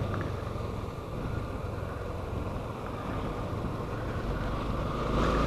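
Motorcycle in motion: steady engine and road noise with wind on the microphone, the low engine sound getting louder about four seconds in.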